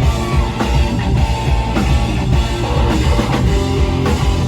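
Live rock band playing: drum kit and guitars in an instrumental passage at the start of a song.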